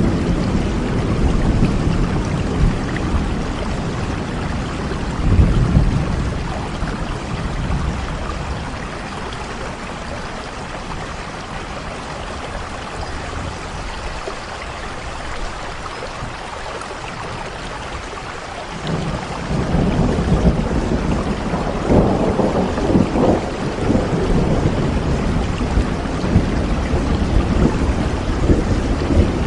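Steady rain falling, with low rumbling swells beneath it, a short one about five seconds in and a longer, louder stretch from about two-thirds of the way through.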